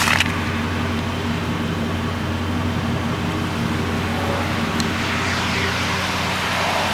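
Ford F-150's 5.4-litre V8 idling steadily through a Flowmaster dual exhaust, with a short knock right at the start.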